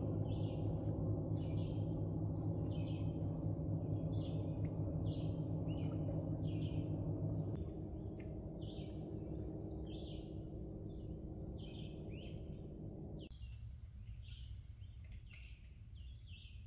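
A songbird chirping with short calls over and over, one or two a second. Underneath is a steady low hum that drops in level about halfway through and mostly falls away about two-thirds through.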